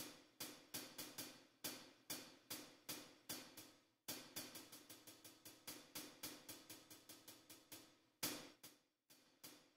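Faint, evenly spaced light taps on a drum kit's cymbal or hi-hat, about three a second, with one stronger stroke about eight seconds in and a short pause near the end.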